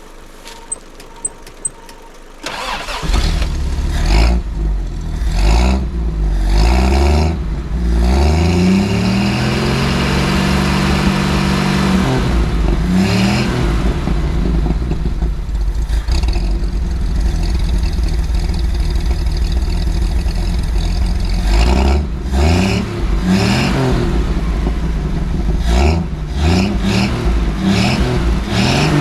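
Ford 250 crossflow straight-six engine starting about two and a half seconds in, after a few light clicks, then revved several times and left running with occasional blips of the throttle. It runs on a fresh set of spark plugs, and the owner suspects cylinders 1 and 2 are not firing properly.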